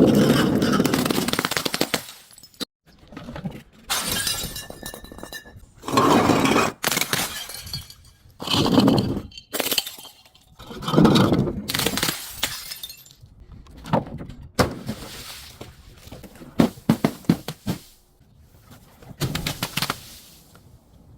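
Objects crunching and breaking as they are crushed, in about nine separate crunches a few seconds apart.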